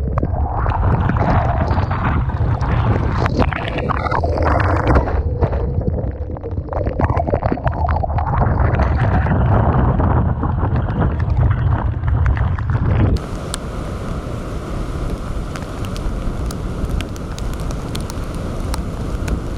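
Typhoon-force wind buffeting the microphone over the wash of storm surf, a heavy low rumble. About 13 seconds in it switches abruptly to a lighter, steadier hiss with scattered ticks of wind-driven rain.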